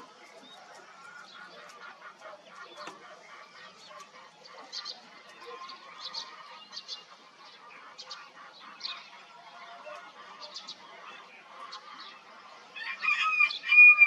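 Morning birdsong: many birds chirping and calling in short, scattered notes, with a much louder, drawn-out call near the end.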